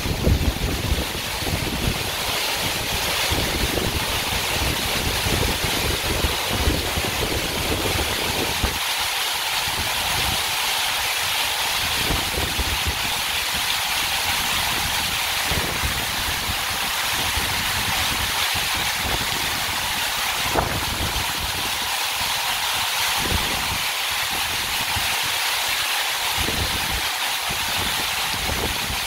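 Doğançay Waterfall's water falling in a steady, loud rush, heard from the base of the falls. Irregular low rumbling comes and goes underneath.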